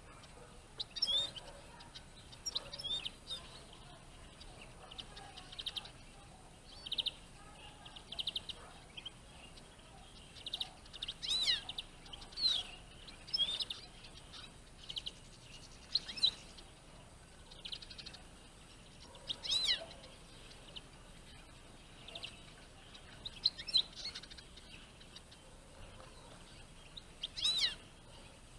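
Eurasian siskins calling: repeated short, high chirps and quick falling whistles, scattered through with short gaps, the loudest near the middle and near the end.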